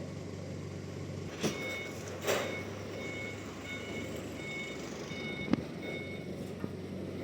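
A vehicle's reversing alarm sounds a series of evenly spaced high beeps, about one and a half a second, over a steady engine hum. Two knocks come just before the beeping starts, and a sharp click comes near its end.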